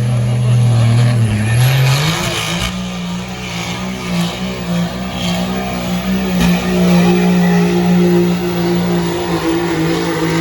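Pulling truck's engine at full throttle dragging the sled. Its note climbs about a second and a half in, then holds high and steady, with tyre noise over it.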